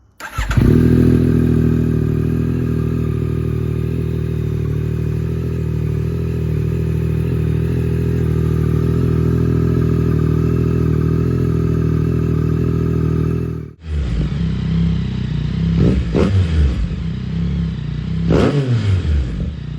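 Yamaha R9's 890 cc three-cylinder engine through a Yoshimura AT2 exhaust, firing up on a cold start and idling steadily for about thirteen seconds. After a brief break the engine is revved in two sharp blips, its pitch rising and falling.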